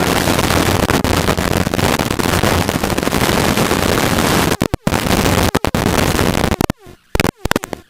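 Helicopter in flight heard through a cockpit microphone: dense crackling wind buffeting over a low steady hum. It cuts out briefly about five seconds in and again near the end.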